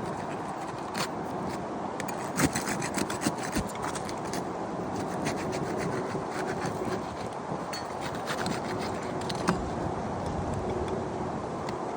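Roof shingles being worked by hand: continuous rubbing and scraping with scattered sharp clicks and taps, some in quick clusters.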